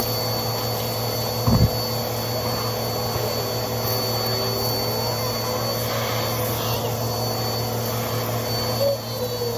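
Vacuum cleaner running steadily with a constant motor whine, with one brief low thud about a second and a half in.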